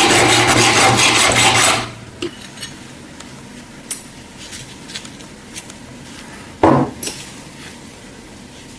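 Power tool working metal, with a steady hum and fast, even scraping pulses, cut off about two seconds in. Then light scattered clicks of metal parts being handled, and one louder knock near the end.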